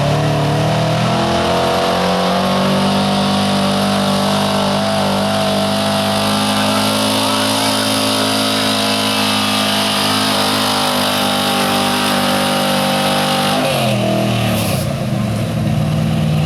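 1983 GMC pickup's engine at high revs under load in a truck pull, dragging the sled. The revs climb at the start, hold steady for most of the run, then drop away near the end as the pull finishes.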